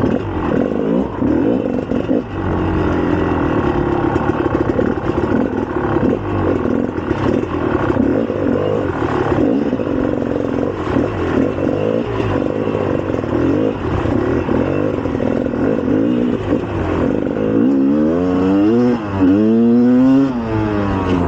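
2004 GasGas EC300 two-stroke enduro engine running under changing throttle, with the revs rising and falling sharply several times near the end.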